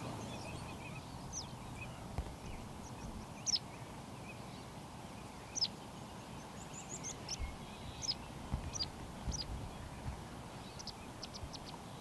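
Short, high bird calls, each sweeping quickly downward, come scattered over a faint steady background hiss. They are more frequent through the middle, and a quick run of them comes near the end.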